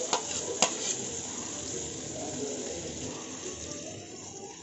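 Butter and green marinade sizzling in a nonstick pan under hariyali chicken kebab skewers as the butter is brushed on, with two light clicks in the first second. The sizzle eases a little toward the end.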